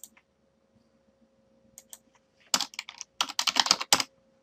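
Computer keyboard typing: a few scattered keystrokes, then a quick burst of a dozen or so key presses about three seconds in.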